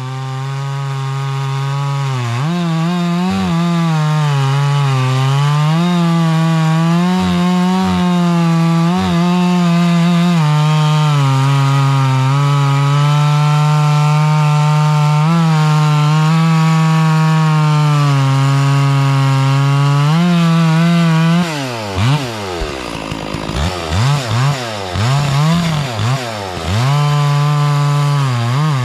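Chainsaw running at high revs and cutting through oak logs into rounds, its pitch sagging and recovering as the chain bites. About two-thirds of the way in, the throttle is let off and blipped several times between cuts, and then it settles back into cutting.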